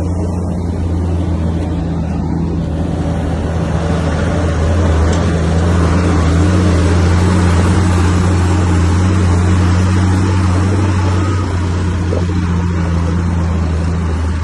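Bulldozer's heavy diesel engine running steadily with a low hum, working harder and growing louder about four seconds in, then easing slightly near the end.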